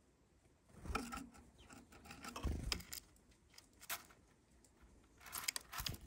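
A small black-capped tit flying in and out at a bowl of sunflower seeds: quick bursts of wing flutter mixed with clicking of seeds and claws on the plastic bowl. The bursts come about a second in, about two and a half seconds in, and near the end, when a bird lands on the rim with a low thump.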